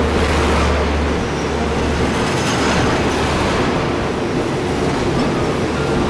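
Thai railway passenger coaches rolling past along the platform: a steady, loud noise of wheels on rail and moving carriages.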